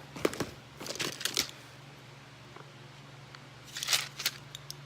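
Plastic snack packets crinkling and rustling as they are handled, in three short bursts with sharp crackles between quiet spells.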